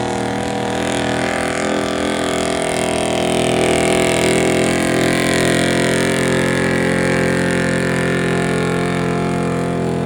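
A Chevrolet stock gas pickup truck's engine running hard at full throttle under load, pulling the weight sled down the track. It is a loud, steady drone that swells slightly a few seconds in.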